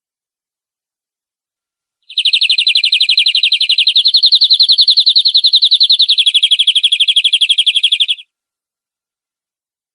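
Domestic canary singing one long, rapid, evenly pulsed trill of about six seconds, starting about two seconds in, its pitch rising a little in the middle and dropping back near the end.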